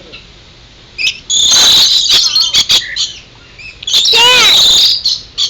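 Birds squawking loudly at close range while crowding in to be hand-fed: a harsh bout of calls about a second and a half in and another about four seconds in, the second falling in pitch.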